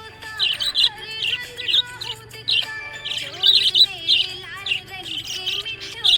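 Budgerigars chirping, with quick high chirps coming several times a second.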